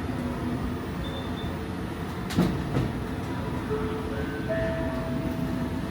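Train running along the track, heard as a steady rumble with one sharp knock about 2.4 seconds in. Near the end, a few held tones at different pitches sound briefly, like an on-board chime.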